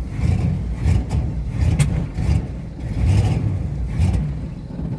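A 1983 Pontiac Firebird's engine runs rough on a cold start, surging up and down about once a second. It is a cold-blooded engine struggling in the freezing weather and is close to stalling, sagging near the end.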